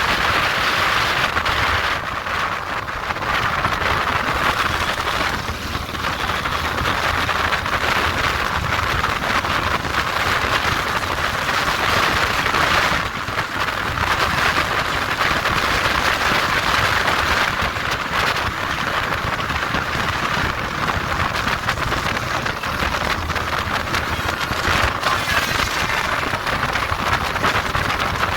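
Steady rush of wind over the microphone of a moving motorcycle, with road and engine noise underneath.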